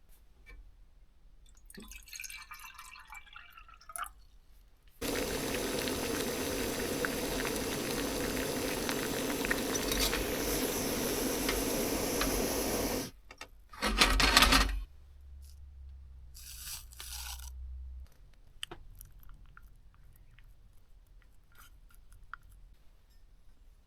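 Water running or pouring steadily for about eight seconds, stopping abruptly, followed by a short louder burst and a brief low hum.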